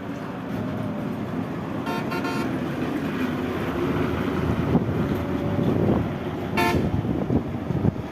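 Road traffic noise with short horn toots: a quick run of about three toots about two seconds in, and one brief higher toot about six and a half seconds in.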